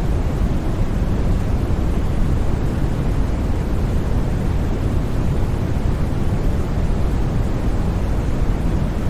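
Steady white noise played for sleep: an unbroken, even rushing hiss, heaviest in the low end and thinning toward the top, with no changes or sudden sounds.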